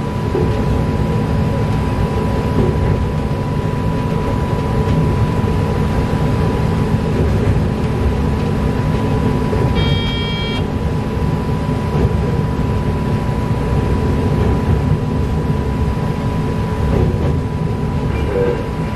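Electric train heard from inside the driver's cab while running along the line: a steady rumble of wheels on track with a constant thin tone underneath. About halfway through comes a short high tone lasting under a second.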